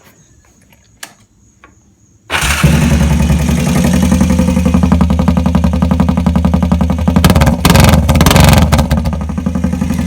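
2003 Honda 250 four-wheeler's engine starting about two seconds in and running loud through an exhaust with its baffle removed, so it sounds like a straight pipe. It is revved in short bursts a little past halfway, then eases back near the end.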